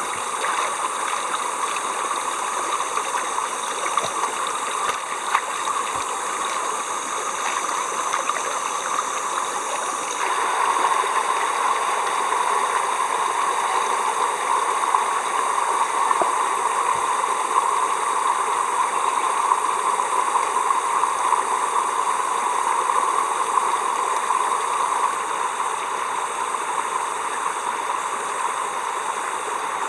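Running water, a steady rushing sound like a stream, which gets a little louder about ten seconds in.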